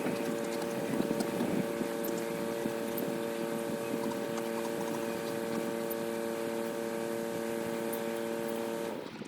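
Tractor engine running at a steady speed, a constant drone that cuts off abruptly near the end.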